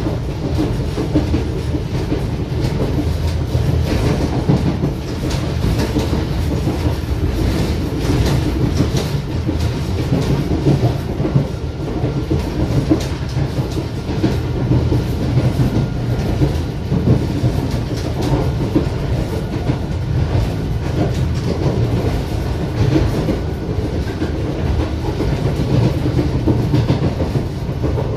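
Passenger train coach running along the track, heard from on board: a steady low rumble with the wheels clicking irregularly over the rails.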